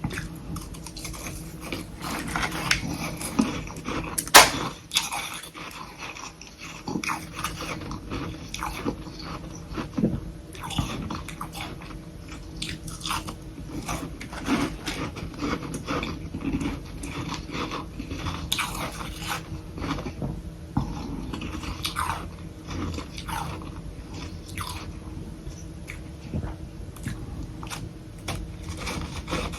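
Close-miked chewing and crunching of soft humidifier-made freezer frost, a steady run of irregular crisp crunches with one sharp, louder crunch about four seconds in.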